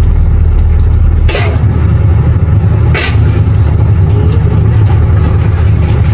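A heavy engine running with a loud, steady low rumble, with two short hisses of air, like air-brake releases.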